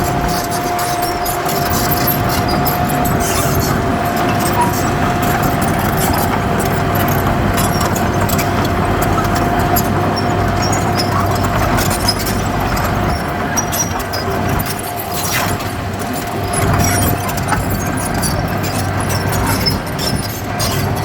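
Heavy diesel earthmoving machinery running under work, a steady engine rumble with a high, steady whine over it and scattered clatter and rattles.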